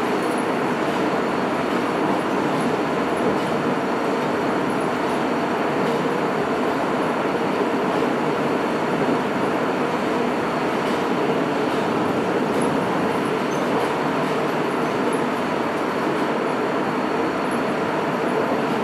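Running noise heard inside a Sapporo Namboku Line 5000 series subway car, a rubber-tyred metro, as it travels through the tunnel between stations. It is a steady, even rumble and hiss with a faint high steady tone above it.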